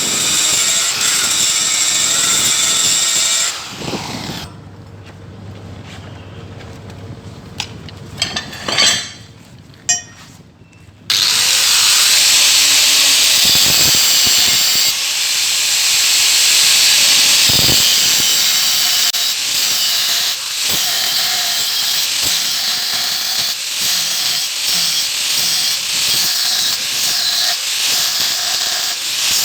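A power tool working metal, running loud and steady with a strong high hiss. It stops a few seconds in for a quieter stretch broken by a few knocks, then starts again about eleven seconds in and runs on.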